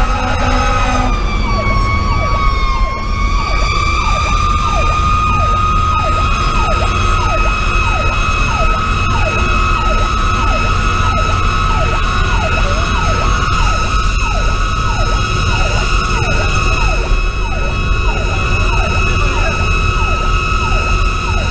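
Federal Q2B mechanical siren wailing at a held high pitch, sagging briefly about two seconds in and winding back up, layered with a Sho-Me Powercall electronic siren yelping in rapid sweeps about twice a second. Grover air horns sound at the start and cut off about a second in, over the fire engine's Detroit Series 60 diesel running underneath.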